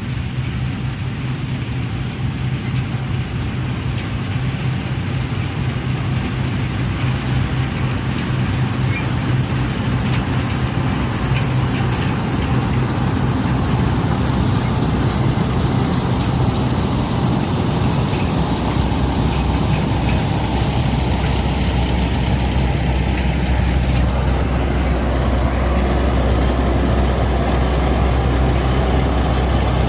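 Fortschritt E514 combine harvester's diesel engine running steadily as it cuts, slowly growing louder as it comes closer; the engine note drops lower about two-thirds of the way through.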